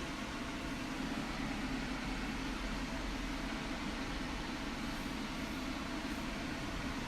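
Steady low hum with a hiss over it: unchanging background room noise with no distinct event.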